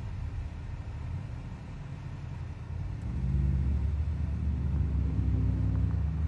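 Car engine heard from inside the cabin, running low and then revving up about three seconds in as the car pulls away and accelerates.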